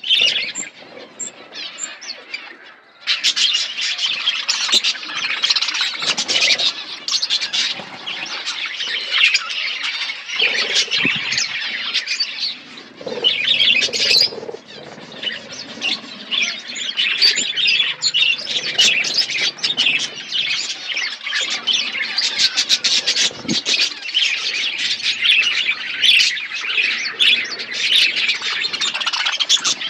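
A colony of budgerigars chirping, warbling and squawking together in a dense, continuous chatter, briefly thinner about two seconds in.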